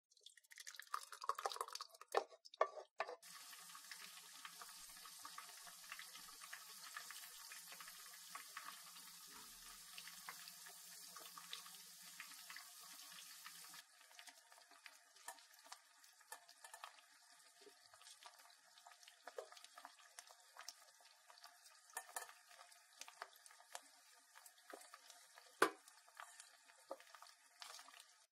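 Spring rolls deep-frying in a pan of oil, faint: a steady sizzle, then from about halfway sparser crackles and pops, with one sharp pop near the end. Briefly at the start, sweet-and-sour dip is poured into a ceramic bowl.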